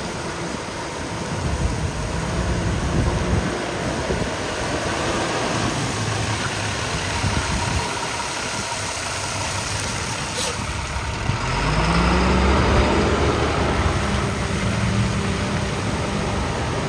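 Diesel engine of an International 4300 truck running. About ten and a half seconds in there is a sharp click; then the engine note rises and holds at a higher, louder pitch.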